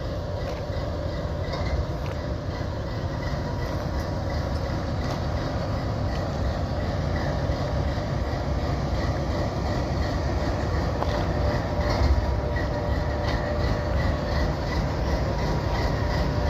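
Diesel freight locomotives running at a standstill: a steady low rumble with a faint steady hum over it, slowly growing a little louder.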